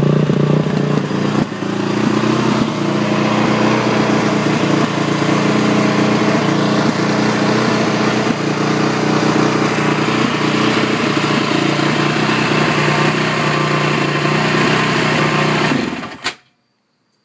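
Honda TRX450ER's single-cylinder four-stroke engine running at a high, rough idle, a fault that the owner says persists even with the choke off. The engine cuts off abruptly about sixteen seconds in.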